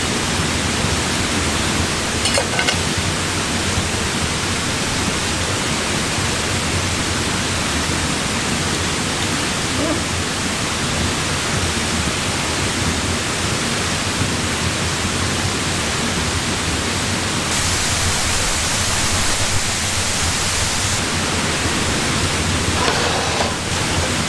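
Steady, dense rush of falling water.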